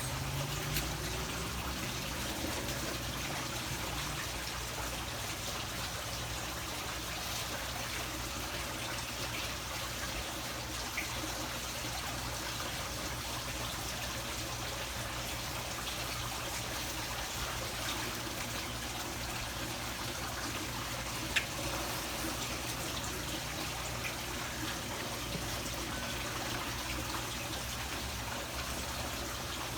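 Steady trickle of running water, with a faint click about eleven seconds in and a sharper one around twenty-one seconds.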